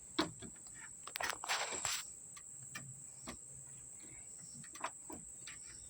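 Scattered light clicks and a brief rustle of hand-fitted trunk-latch parts, over a steady high-pitched insect chirring that runs throughout.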